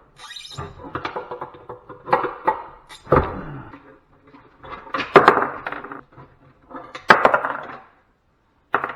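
Metal and plastic parts of a stripped-down light fixture clanking and clattering as they are handled and knocked about. There are about five sharp clanks with short rings, the loudest about five and seven seconds in, with scraping and rattling between them.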